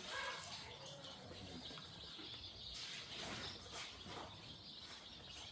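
A flock of young poultry chicks peeping steadily and faintly, many high chirps overlapping.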